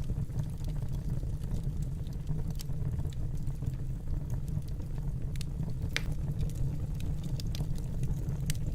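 Wood fire burning in a fireplace: a steady low rumble with irregular small crackles and pops, one sharper pop about six seconds in.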